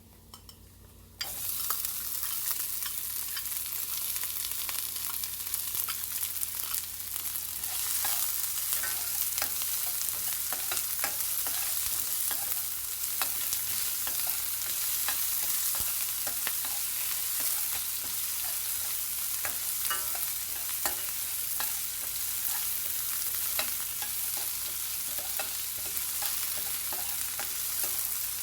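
Chopped onion frying in hot oil with whole spices, sizzling, while a spatula stirs and scrapes the pan with frequent light clicks. The sizzle starts suddenly about a second in and grows louder about a quarter of the way through.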